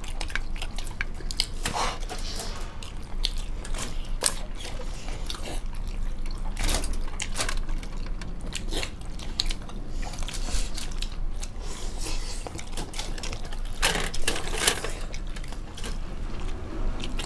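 Several people chewing and biting into soft steamed chicken momos, with wet mouth sounds and small irregular smacks and clicks.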